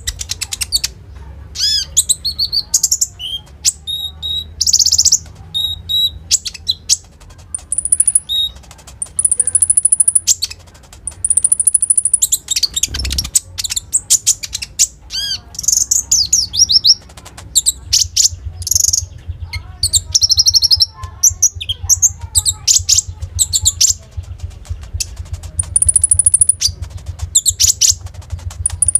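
Konin songbird singing non-stop: rapid high-pitched chirps, trills and sharp whistled calls in quick runs, over a steady low hum.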